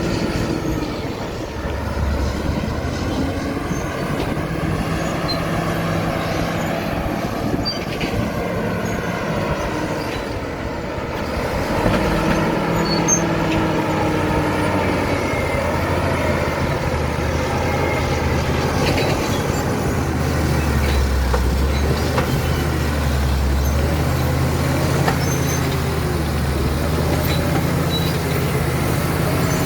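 Caterpillar D7 bulldozer's diesel engine running loud and steady, its pitch rising and falling as the load changes.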